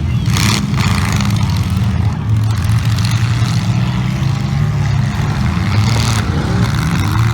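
Demolition derby cars' engines running loud and rumbling together, with two brief louder noisy bursts, about half a second in and again near six seconds.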